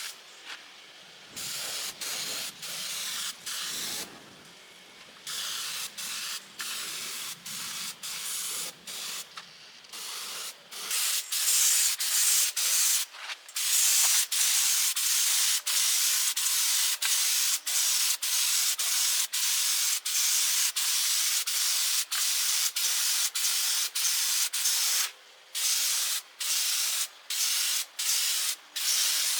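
Spray gun hissing as paint is sprayed onto the truck chassis, the hiss cutting in and out about twice a second and growing louder about eleven seconds in.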